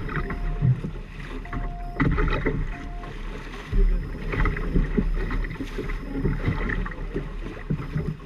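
Water splashing and rushing irregularly against a sailing trimaran's hulls, with low wind rumble on the microphone. Three short beeps at one pitch sound in the first few seconds.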